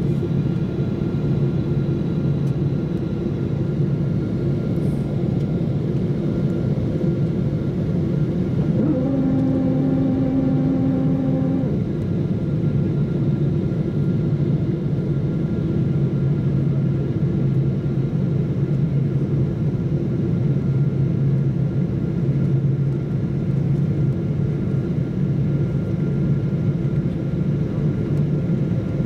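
Airliner noise during the landing approach: a steady rumble of engine hum and airflow. About nine seconds in, a level pitched tone with overtones sounds for nearly three seconds and then stops.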